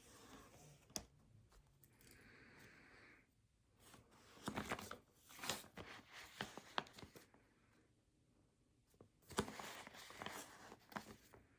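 Faint desk handling sounds: paper rustling and crinkling with scattered light clicks of small objects being handled. There are two busier spells of rustling, in the middle and near the end.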